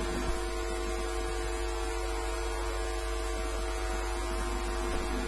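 Steady electrical mains hum with a faint buzz, even throughout.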